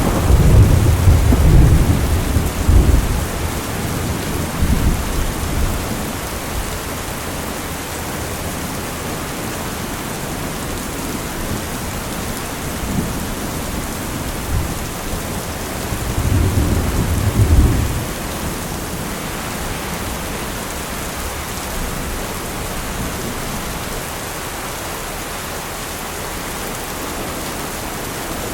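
Steady rain with rolls of thunder. A loud rumble at the start fades over about three seconds, and another rolls in about sixteen seconds in.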